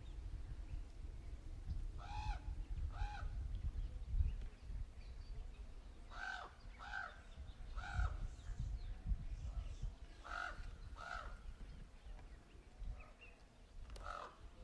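Crows cawing: short, harsh calls, mostly in pairs, about a dozen in all, over a steady low rumble.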